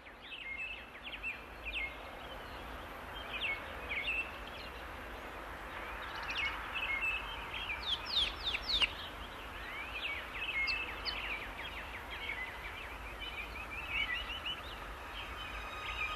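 Wild birds chirping and calling, many short rapid calls over a steady hiss of outdoor ambience, growing busier near the end.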